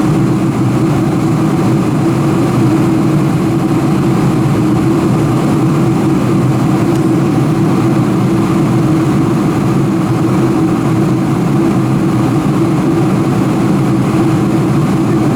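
Steady cabin noise inside a Boeing 747-400 in flight after takeoff: the rush of engines and airflow with a steady low hum, unchanging throughout.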